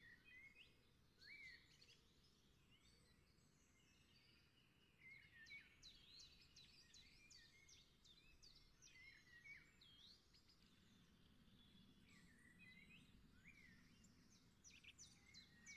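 Faint birdsong: many short, high chirps and twitters throughout, over otherwise near silence.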